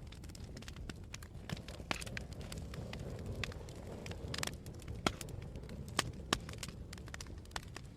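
Campfire crackling: irregular sharp pops and snaps over a low steady rumble, with a few louder pops past the middle.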